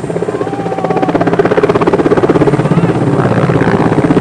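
Mi-8 helicopter rotor beating in rapid, even pulses, getting louder about a second in.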